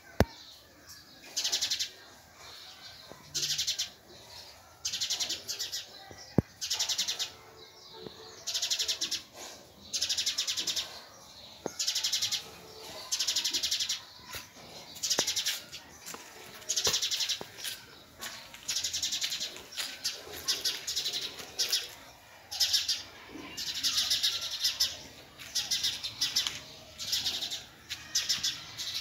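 A bird chirping in short, high, buzzy bursts, roughly one a second, over and over. A single sharp click sounds right at the start.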